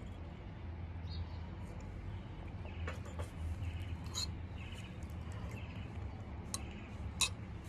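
Close-up eating sounds: chewing and mouth smacks with a few sharp clicks scattered through, over a steady low hum.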